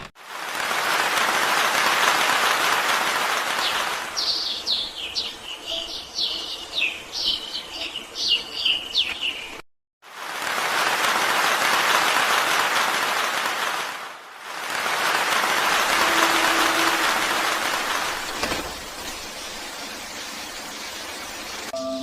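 Steady rain hiss, with a run of high, quick bird chirps for several seconds over lighter rain. The sound cuts off abruptly for a moment about ten seconds in, then the rain hiss comes back.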